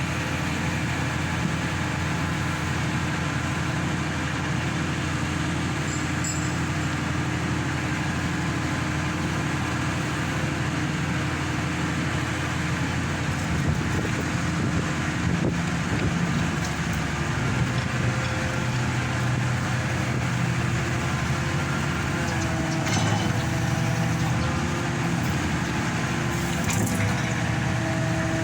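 Hydraulic static pile driver's engine and hydraulic pump running steadily, a constant drone whose pitch shifts slightly in the second half, with a few faint clicks near the end.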